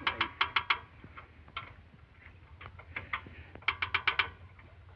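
Ratchet spanner clicking in quick runs while a bolt on a power tiller is tightened: a run of about six sharp metallic clicks at the start, scattered single clicks, then another run about four seconds in.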